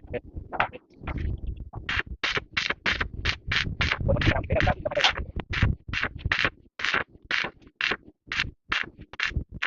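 Rapid, regular scraping strokes, about three a second, beginning about two seconds in, as of a hand tool worked back and forth.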